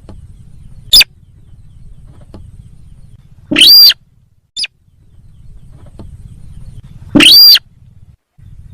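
Sintar sawah bird calls from a lure recording: a short sharp note about a second in, a longer call that rises and falls just past three seconds, another brief note, and a second long arching call near the end. They are loud enough to clip, over a steady low hum.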